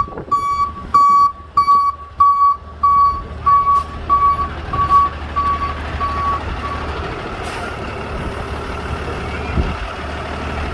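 A truck's reversing alarm beeping steadily, about one beep every 0.6 s, stopping about six and a half seconds in. A vehicle engine runs underneath throughout.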